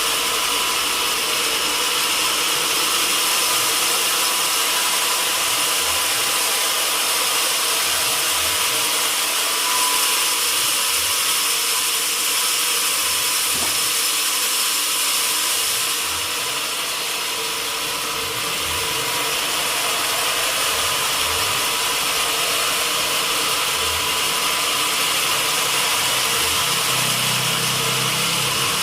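Sawmill machinery running steadily: an even mechanical noise with a constant hum, faint low knocks every second or so, and a low rumble that comes in near the end.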